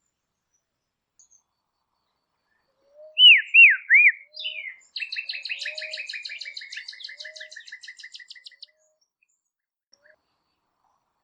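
A songbird singing: three loud swooping whistles, then a long fast trill of short notes that falls slowly in pitch.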